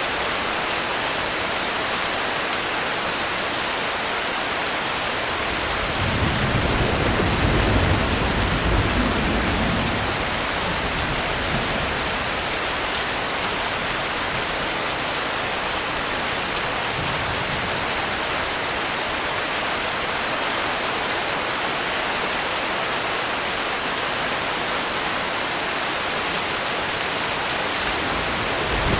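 Steady, heavy rainfall hiss. About six seconds in a low roll of thunder swells for a few seconds and fades, and another begins right at the end.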